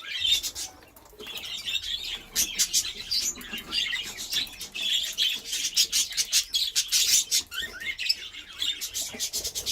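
A flock of budgerigars chattering and chirping, many short overlapping calls and warbles at once.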